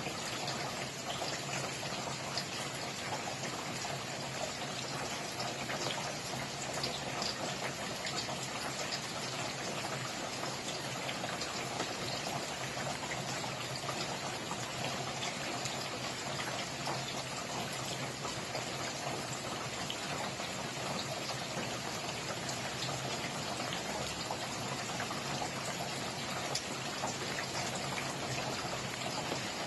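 Steady rainfall, with many individual drops pattering on a surface.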